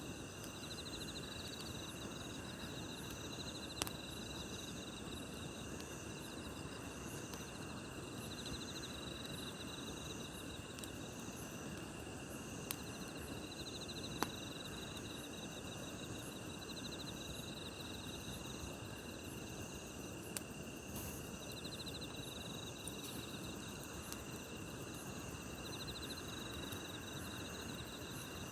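Crickets and other night insects chirping and trilling steadily, over the low hiss of a campfire, with a few sharp pops from the burning wood.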